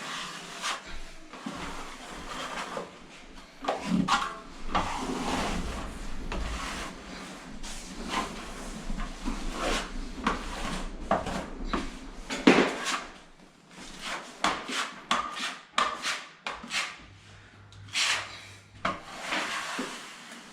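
Irregular scraping and rubbing on wood, broken by sharp knocks.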